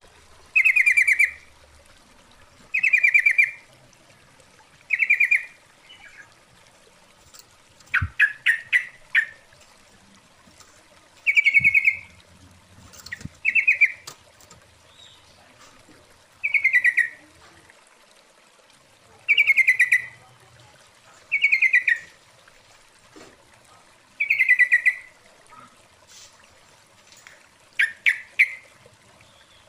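Yellow-vented bulbul (trucukan) calling: short bubbly phrases repeated every two to three seconds, with a quicker burst of sharp notes twice. It is a female's call to males, used as a trapping lure.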